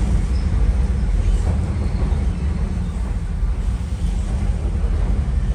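Cabin noise of a Kobe Electric Railway train running on the Arima Line, heard from inside the passenger car: a steady low rumble of wheels and running gear.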